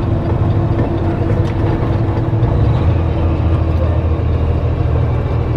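Kenworth T660 semi truck's diesel engine running as a steady low drone, its lowest note growing stronger about halfway through.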